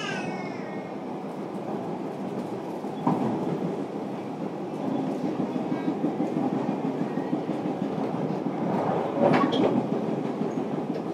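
Running noise of a JR Kyushu 305 series electric train heard inside motor car MoHa 305-101: a steady rumble of wheels on rail, with a louder clack about three seconds in and another near nine seconds as the wheels pass over rail joints.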